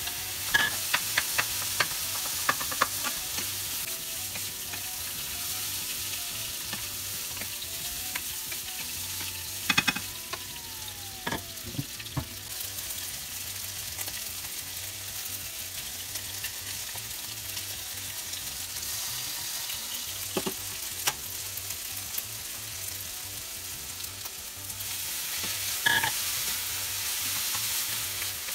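Chicken and rice sizzling as they are stir-fried in a frying pan, with sharp clicks and scrapes of a spatula and chopsticks against the pan and the small pot of frying oil. The sizzle grows louder near the end as a soy sauce and Shaoxing wine mixture goes into the hot pan.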